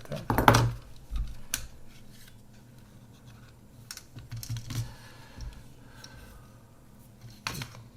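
Scattered clicks and taps of small plastic and metal parts being handled while a half-frame film camera is taken apart. The loudest clicks come about half a second in, with lighter taps after that.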